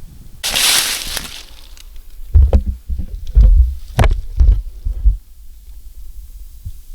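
Handling noise on a hand-held camera's microphone: a brief hiss about half a second in, then a run of heavy low thumps and rumbles for about three seconds, dying down near the end.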